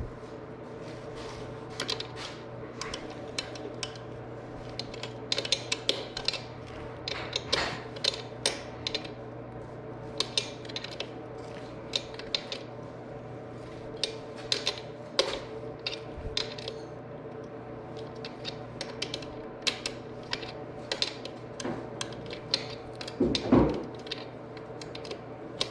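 Hand tools and metal parts clinking and ticking irregularly while the rear sprocket on a Yamaha YZ125 wheel is being bolted on, over a steady hum, with one louder clank near the end.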